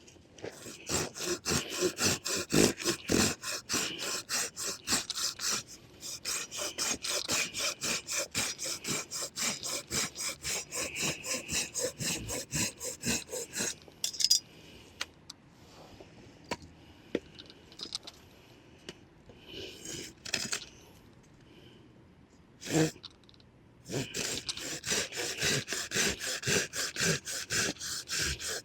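Hand saw cutting a piece of firewood with quick, even back-and-forth strokes, several a second. It pauses briefly about 6 s in, stops near the middle for a stretch of a few knocks and scrapes, and starts sawing again near the end.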